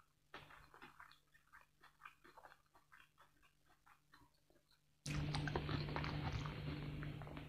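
Close-miked chewing of food: many small, quiet mouth clicks and smacks. About five seconds in, a much louder, even hiss with a low steady hum sets in abruptly and lasts about two seconds.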